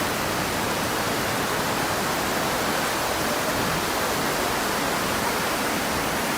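Steady, even noise of heavy water, rain and flowing floodwater, with no breaks or distinct impacts.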